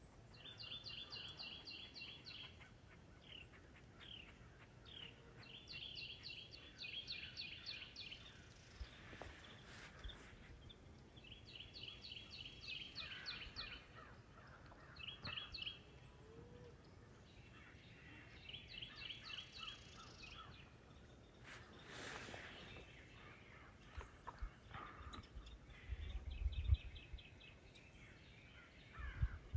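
A songbird singing a quick trilled phrase of about two seconds, repeated roughly every five seconds, with fainter calls from other birds in between. A few low thumps near the end.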